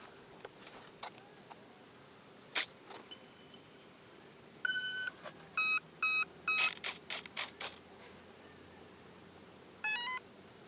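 Mr RC Sound model-aircraft sound module playing through its small speaker: a half-second electronic tone, three short beeps, then a quick string of short sharp pops like simulated machine-gun fire, and a brief rising chirp near the end.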